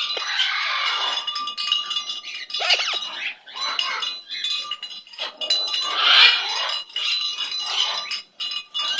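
Pet bird calling and chattering in short bursts, one with quick up-and-down pitch sweeps, over a steady high tone.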